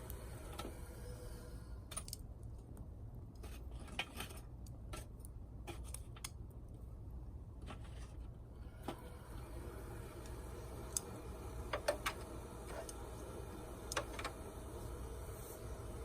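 Small twig fire in a stainless mini fire pit: scattered crackles and snaps with light metallic clinks, a few sharper snaps close together about twelve seconds in, over a steady low hum.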